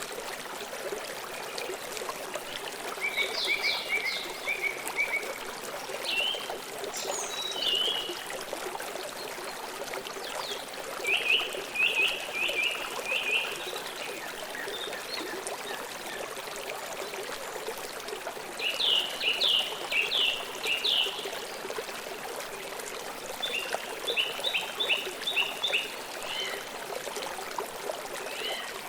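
Steady rush of a flowing river, with birds chirping over it in several short phrases of quick repeated high notes.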